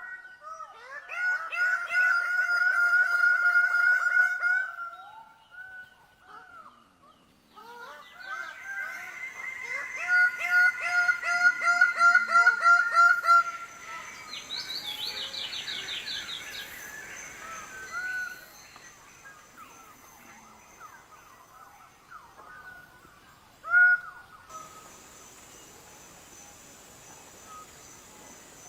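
Songbird singing: two long, rapid trilling phrases, then a quick run of high falling notes and scattered short calls, with one loud call about 24 seconds in. A steady high-pitched hum sets in near the end.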